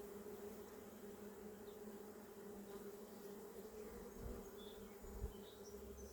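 Honeybees buzzing around an opened hive: a faint steady hum with a higher overtone. A soft low thump about five seconds in.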